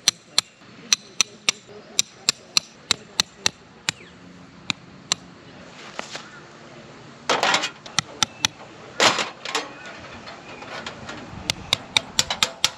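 A run of sharp knocks, about three a second, broken in the middle by two short rustling bursts before the knocking starts again.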